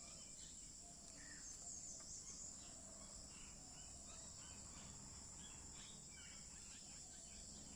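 Faint morning outdoor ambience: a steady high-pitched insect drone, with birds chirping in many short, scattered calls over it.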